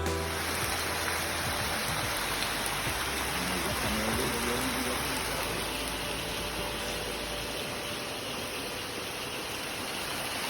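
Steady rush of water from a rainforest mountain spring pouring and running over rocks.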